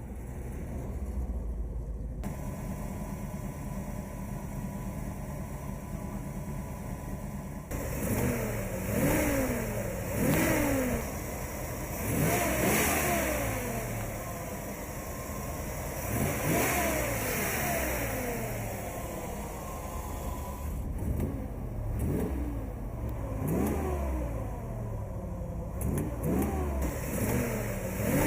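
1982 Chevrolet Camaro Z28 Indy 500 Pace Car's V8 engine idling steadily, then blipped repeatedly from about eight seconds in, each rev rising and falling quickly in pitch.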